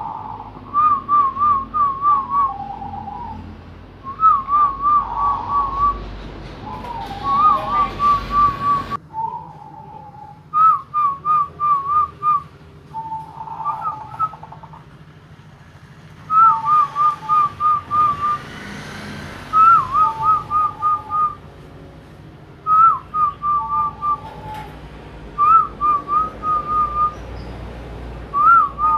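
Bangkok-type zebra doves (perkutut) cooing against each other in a song contest. The call is a short rippling, warbling whistle phrase ending on a lower note, repeated about every three seconds.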